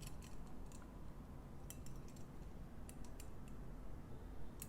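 Faint, irregular small clicks and light taps of metal rotisserie spit and forks being handled and fitted together.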